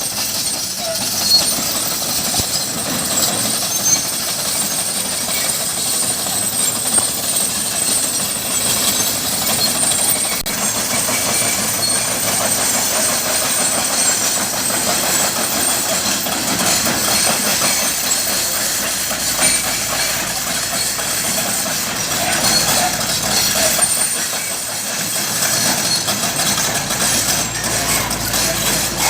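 Backhoe loader running, with a steady metallic rattling and clanking and scattered sharp clicks.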